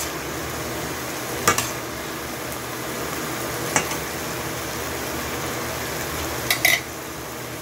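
Chopped chicken and onions sizzling steadily in a stainless steel pan, with a few sharp clinks of a metal spatula and spoon against the pan: one about a second and a half in, one near the middle, and two close together near the end.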